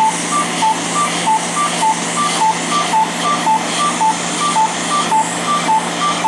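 Fraxel laser's audible speedometer: short high and low beeps alternating evenly, about three and a half a second, pacing how fast the handpiece is moved over the skin. A steady hiss runs underneath.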